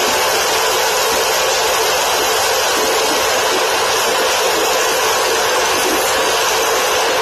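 Gas preheating burner on the rail ends for a thermite weld, giving a steady, loud hissing roar with no rhythm or pitch.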